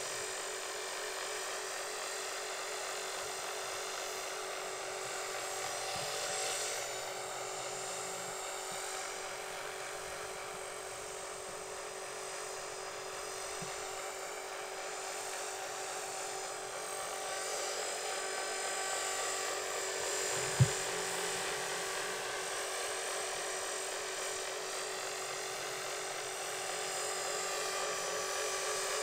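Align 450 electric RC helicopter in flight: a steady high whine of motor, gears and rotor that swells a little as it comes closer. A single sharp knock about twenty seconds in.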